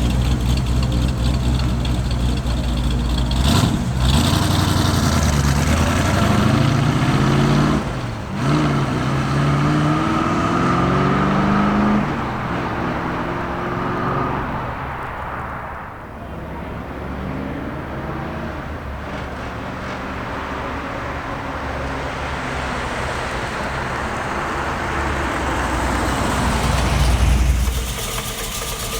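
A 1955 Chevrolet Bel Air's rebuilt 350 V8 with headers and dual exhaust, running under way. The engine note climbs in pitch twice with a short break between, like shifts through the manual gearbox, then falls away and settles to a steadier note.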